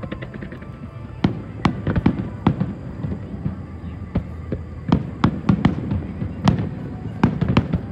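Aerial fireworks shells bursting: a run of sharp bangs at an irregular pace, some coming in quick clusters and some louder than others, over a steady low rumble.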